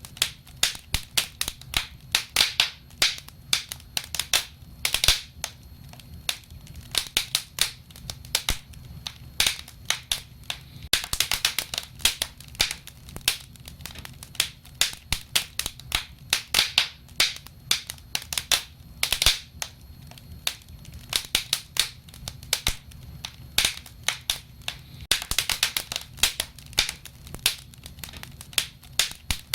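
Wood fire crackling: irregular sharp pops and snaps, some coming in quick clusters, over a steady low rumble of the flames.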